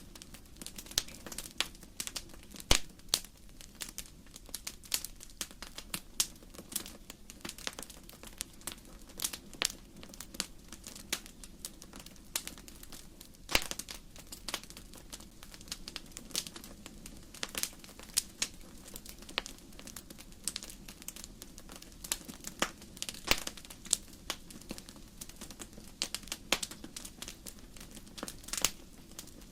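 Wood fire in a fireplace crackling: burning logs giving irregular sharp pops and snaps, a few louder than the rest, over a steady low hum.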